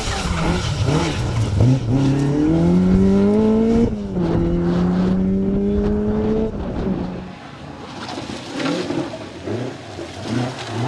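Rally car engine accelerating hard: the pitch climbs, drops with a quick upshift about four seconds in, climbs again, then fades about seven seconds in as the car moves off, leaving fainter bursts of engine noise.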